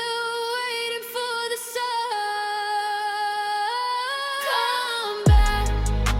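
A female voice holds long wordless sung notes, moving slowly between a few pitches with light vibrato, over a sparse backing with no bass. About five seconds in, a deep drum hit with a falling pitch lands and a bass line comes in as the full beat returns.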